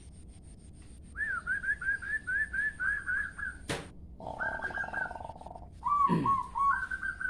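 Songbird singing: a quick run of about ten repeated chirping notes, then a buzzy trill and further short phrases. A single sharp click comes near the middle.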